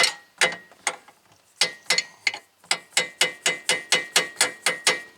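Hand ratchet wrench clicking as a hub bolt is turned. The clicks come in quick runs with a short pause about a second in, then settle into a steady run of about three clicks a second.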